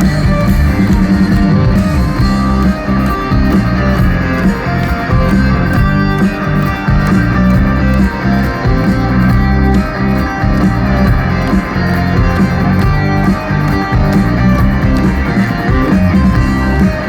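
Live rock band playing a loud, continuous passage with electric guitars out front over bass and drums.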